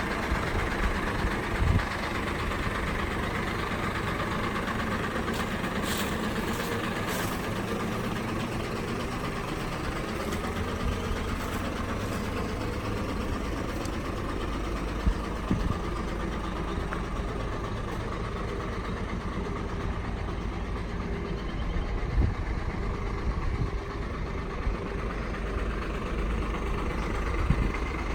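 Hino FM 500 Series tip truck's diesel engine idling steadily, with a few brief knocks over it.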